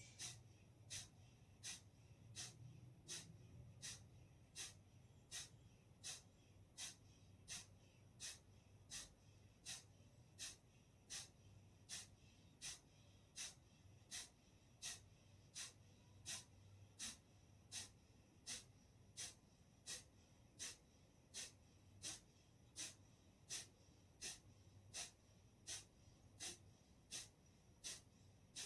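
Kapalbhati breathing: short forceful exhalations puffed out through the nose, in an even rhythm of nearly two a second.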